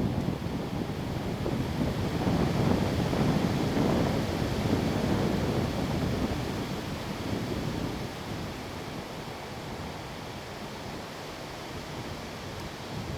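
Windstorm wind gusting and buffeting the microphone in a deep, rushing noise. It eases off a little past halfway and picks up again near the end.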